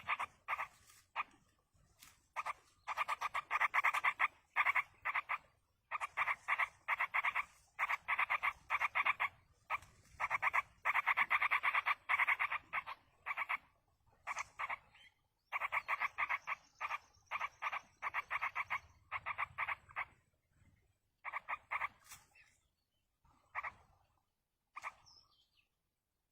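Yellow-vented bulbul nestlings giving rasping begging calls in repeated bursts of fast pulses, each burst lasting up to a couple of seconds, as they are fed.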